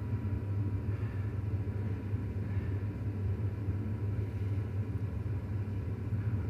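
Ford 7.3 L PowerStroke V8 turbo-diesel idling steadily with the injector for cylinder 6 unplugged. The idle does not change with that injector out, a sign that cylinder 6 is not firing: a bad injector or a dead cylinder.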